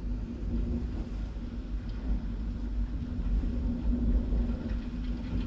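A low, continuous rumble with a faint steady hum over it, which the listener wonders might be a tornado or just thunder.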